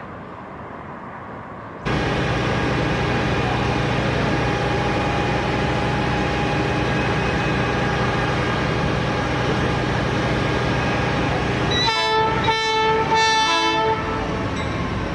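Diesel locomotive engine running steadily close by, coming in suddenly about two seconds in. Near the end its air horn sounds three short blasts.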